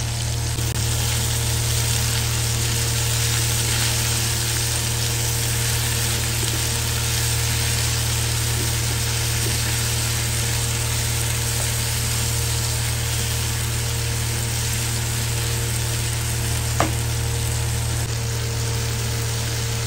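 Onions, tomatoes and ginger-garlic paste sizzling steadily in hot oil in a non-stick frying pan, stirred now and then with a wooden spatula, over a steady low hum; a single short click about 17 seconds in.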